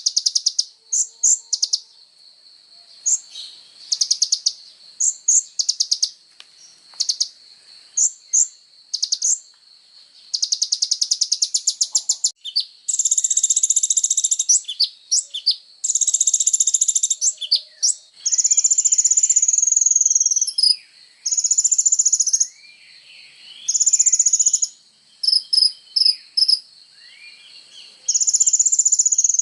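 Sunbird (the bird Indonesian keepers call kolibri ninja) singing in full song: rapid high trills and sharp chips. About halfway through come longer buzzy rattling phrases of a second or two each. A steady high-pitched drone runs underneath.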